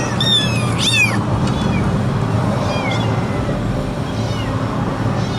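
A kitten meowing several times in high, falling cries, the loudest in the first second and fainter calls later.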